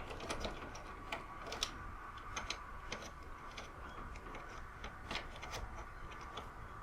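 Scattered light clicks and taps of a small plastic fuse holder being handled and refitted into a UPS.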